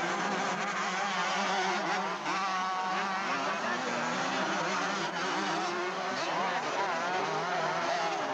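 Several motocross motorcycle engines racing, their pitch wavering constantly as riders rev and shift, with one bike standing out briefly about three seconds in.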